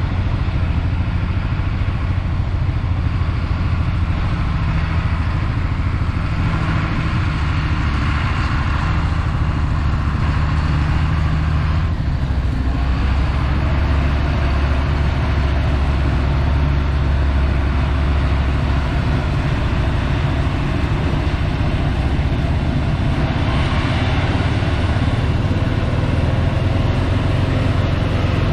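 Claas Lexion 740 combine harvester's diesel engine running steadily at working speed, its note shifting slightly about twelve seconds in.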